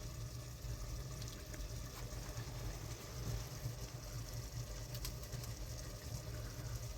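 Steady rain falling: an even, continuous hiss of water with a low rumble underneath and a few faint drips or ticks.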